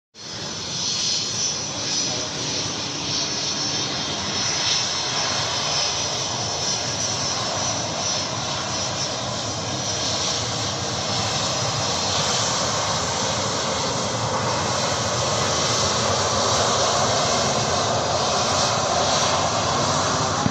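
Airliner jet engines running with a steady rushing noise, growing slightly louder toward the end.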